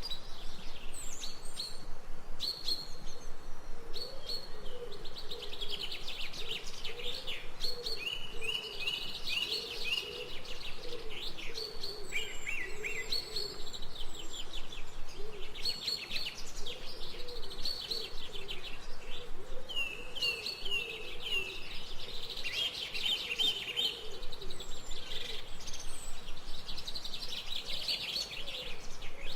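Several songbirds chirping and singing continuously, with quick overlapping chirps and trills. A lower wavering call runs beneath them.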